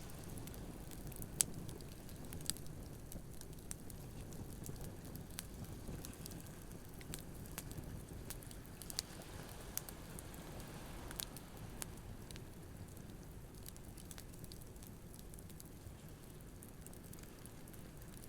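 Campfire crackling with scattered sharp pops, the loudest about a second and a half in, over the low steady wash of surf.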